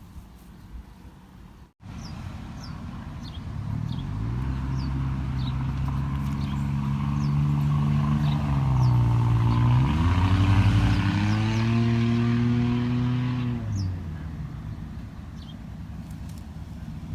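An engine passing close by: it grows louder from about four seconds in, dips in pitch about ten seconds in, and cuts away near the end. Short high chirps sound over it.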